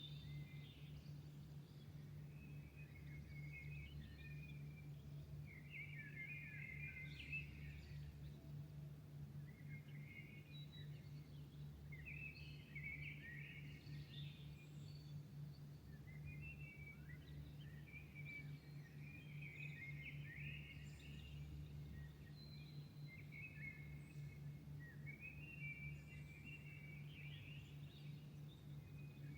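Songbirds singing in faint, repeated warbling phrases over a steady low hum.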